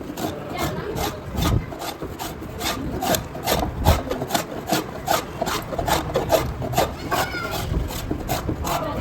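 Hand tool rasping a wooden cricket bat, scraping it in rapid, even strokes about four times a second as the bat is shaped by hand.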